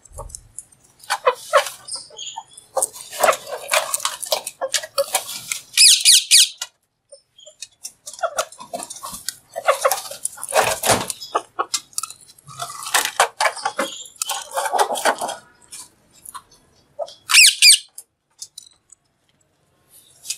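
Green parrot vocalizing in repeated short bursts of chatter and squawks, with two shrill screeches, one about six seconds in and one near the end.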